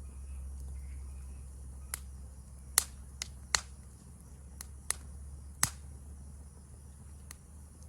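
Wood fire crackling: sharp, irregular pops and snaps, about eight of them, spread over a steady high-pitched insect chorus.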